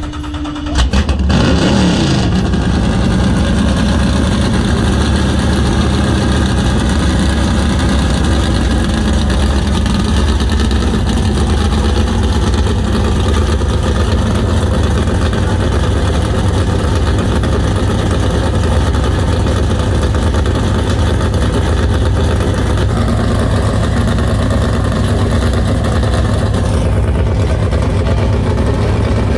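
A C7 Corvette LT1 V8 swapped into a custom car starts up about a second in. It flares briefly in revs, then settles into a steady, loud idle.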